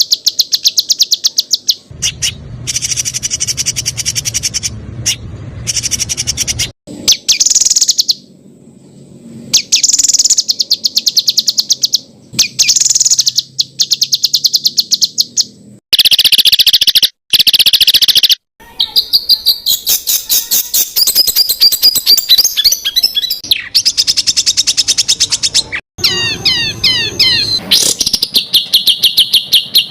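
Songbird 'masteran' training song: a string of spliced bird recordings full of rapid-fire repeated high notes and fast trills, the 'tembakan' shot phrases. Each clip breaks off abruptly and the next begins, every few seconds.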